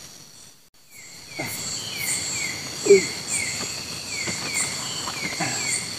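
Night-time rainforest insect chorus: a steady high-pitched buzz, with short falling chirps repeating two or three times a second. It drops out briefly about half a second in, and a short, louder low sound comes about three seconds in.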